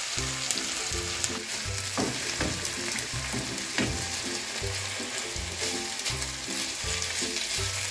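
Ground beef and tomato sauce sizzling in a frying pan while a wooden spoon stirs it, with occasional short scrapes of the spoon against the pan. Soft background music with short repeating notes plays underneath.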